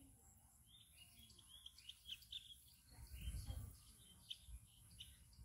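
Small birds chirping in quick, short calls, faintly, with a brief low rumble about three seconds in.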